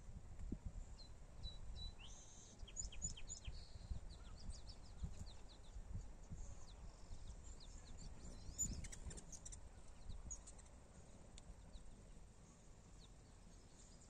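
Small birds chirping in short, high calls, thickest about two to four seconds in and again around nine seconds in, over a faint low rumble.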